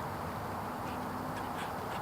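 Small songbirds, sparrows and juncos, giving short, high chip calls several times over a steady background hum.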